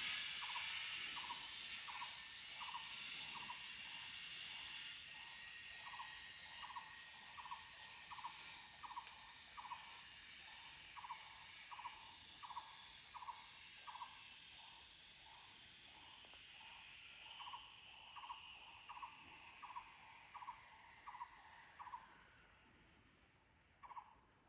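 Zipline trolley running along the steel cable, a fading hiss that slowly drops in pitch as the rider moves away down the line and dies out near the end. Throughout, a small animal calls with a steady chirp about twice a second.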